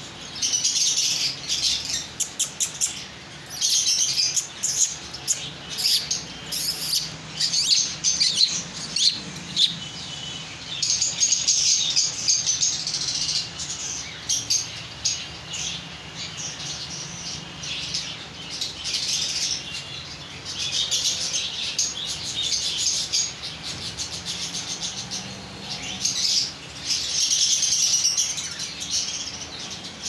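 Many small caged birds chirping rapidly and high-pitched, in busy spells with short lulls between them.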